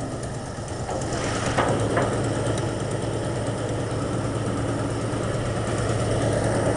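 1989 Jeep Grand Wagoneer's AMC 360 V8 with a two-barrel carburettor idling cold, a little louder from about a second in. It runs with a dead miss that the owner puts down to the rearmost spark plug on one bank; compression is good.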